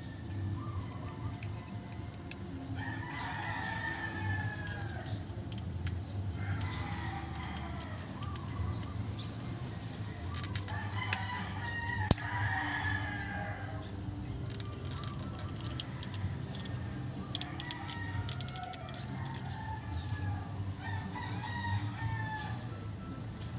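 A rooster crowing several times, each crow a drawn-out call of a second or two, over a steady low hum. Scattered sharp clicks come in around the middle.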